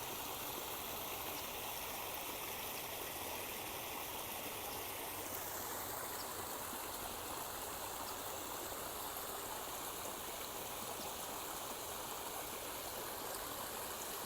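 Flowing water: a steady, even rush of running water that changes slightly in tone about five seconds in.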